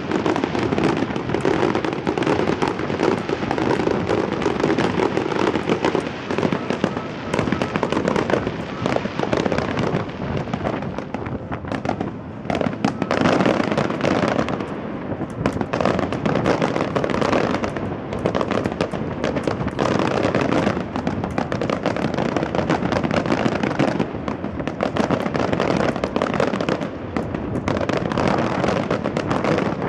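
A fireworks display going off without a break: dense, continuous crackling and banging of shells bursting.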